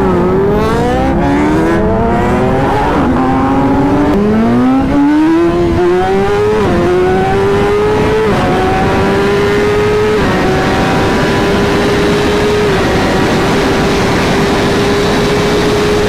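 Superbike engine accelerating hard through the gears, its note climbing and dropping back at each upshift about five times, then holding a steady high pitch for the last few seconds.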